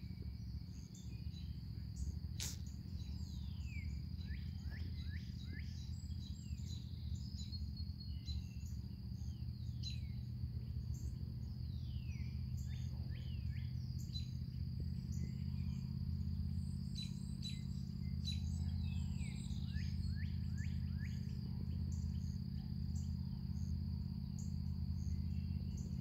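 Birds singing with many short, downward-sliding chirps over a steady high insect trill, with a constant low rumble underneath.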